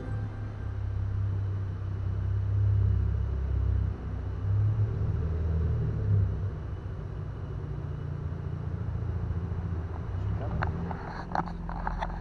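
2015 Chevrolet Camaro's V6 engine idling and creeping at low speed, a steady low hum that swells a few times. A few knocks near the end.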